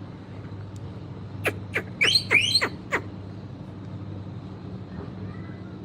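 Rose-ringed parakeet giving a quick run of about six sharp screeches, each falling in pitch, starting about a second and a half in. A steady low hum sits underneath.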